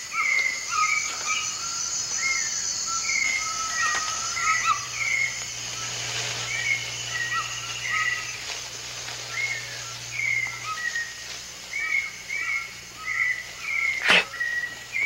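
Rainforest birds calling: many short, repeated chirps and whistles, some overlapping, over a steady high hiss. A single sharp click comes about fourteen seconds in.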